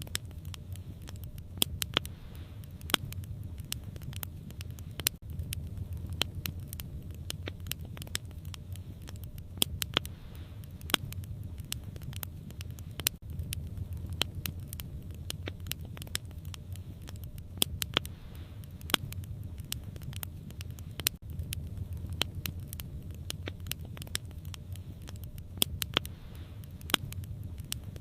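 Wood fire in a fireplace crackling and popping, with irregular sharp snaps several times a second over a steady low rumble.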